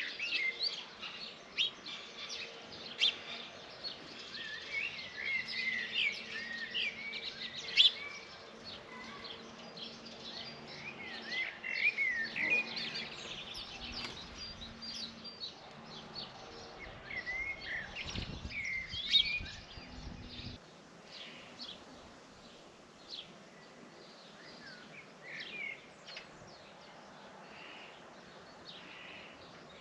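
Small birds chirping and calling at a feeder: many short, quick chirps overlapping, thinning out about two-thirds of the way through.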